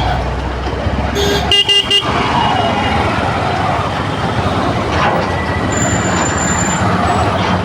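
Road traffic in a jam, a steady rumble of engines and tyres, with a vehicle horn giving a few quick beeps about a second and a half in.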